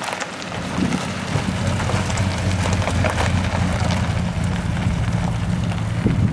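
An engine running steadily: a low drone that builds up in the first second and then holds.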